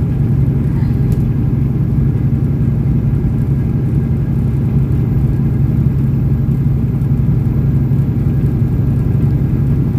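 Steady low drone of a semi truck's diesel engine and road noise, heard from inside the cab while cruising on the highway.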